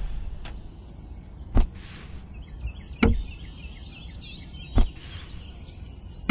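A few light knocks and short rustles as small woven bamboo baskets are set down onto a plastic toy trailer, with faint bird chirps in the background.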